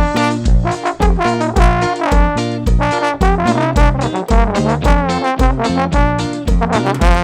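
Instrumental band music with a trombone playing the lead over a steady kick-drum beat of about two beats a second.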